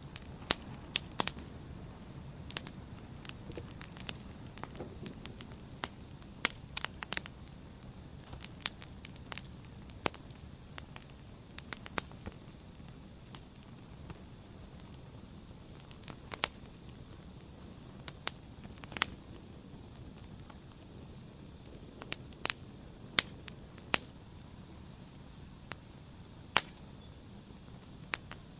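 Wood fire burning in a fireplace: irregular sharp pops and snaps, some in quick clusters, over a steady low rumble of the flames.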